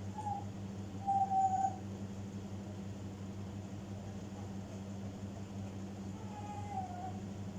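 African grey parrot giving a few low, hoot-like whistles: a short note at the start, a longer level one about a second in, and a falling note near the end.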